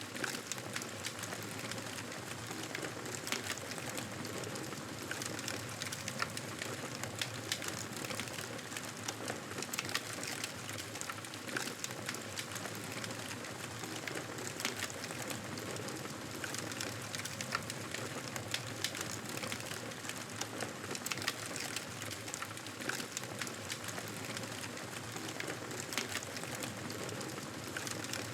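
Wood fire crackling steadily: a soft hiss with frequent small pops and snaps.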